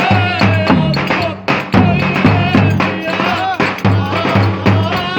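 Live Turkish folk dance music for köçek dancing: a wavering, ornamented melody line over a steady, driving drum beat.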